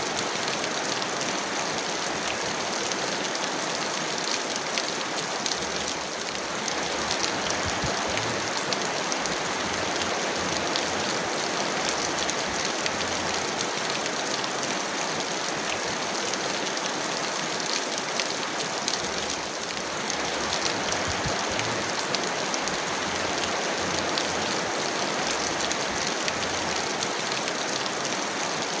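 Heavy rain falling steadily, a dense patter of countless drops with no thunder. The level dips slightly twice.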